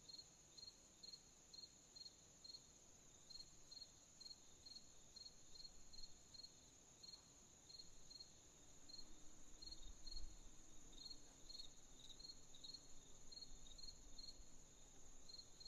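Night chorus of crickets: a steady high insect trill under quick repeated chirps, about two a second with short pauses. A faint low rumble swells about two-thirds of the way in.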